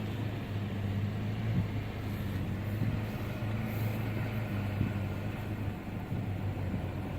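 Car driving along at a steady pace: a low, steady engine and road hum.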